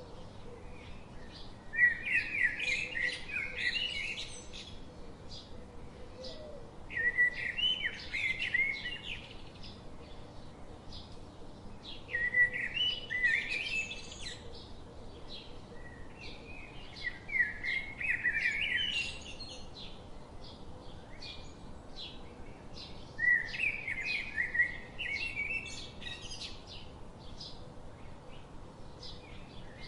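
A songbird singing a warbled phrase of about two seconds, repeated about every five seconds, five times, over faint scattered chirps of other birds.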